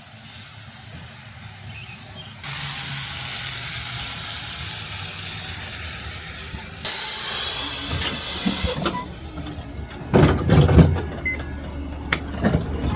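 Vehicle noise with a steady hiss, then a sudden loud burst of hissing air about seven seconds in that lasts about two seconds, followed by a few knocks and thumps.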